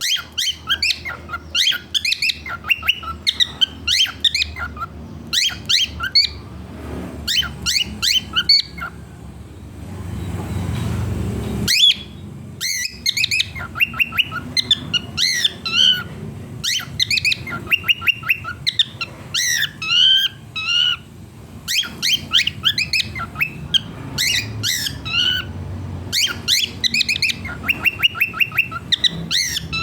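Cockatiel calling over and over: runs of short, rising chirps and squawks with brief pauses between the runs. About a third of the way in, a couple of seconds of low rumbling noise end in a sharp click.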